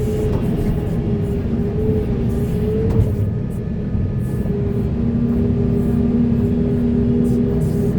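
Heavy diesel earthmoving machinery running under load, a steady engine rumble with a steady whine over it. A second, lower whine joins about five seconds in.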